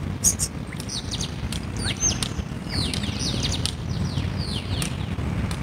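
Birds chirping: a quick run of short, high, downward-sliding chirps, thickest from about a second in until near the end, over a steady low rumble.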